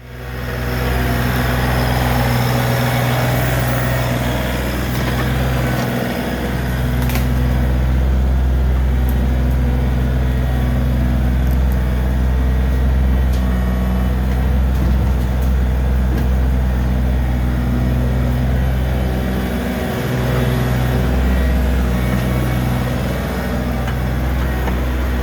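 John Deere 3025E compact tractor's three-cylinder diesel engine idling steadily, a low, even drone with brief dips about six and twenty seconds in.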